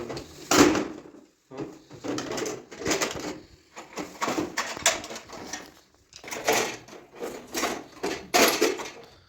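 A run of irregular knocks and clatters, as of hard objects being handled and set down, about one or two a second.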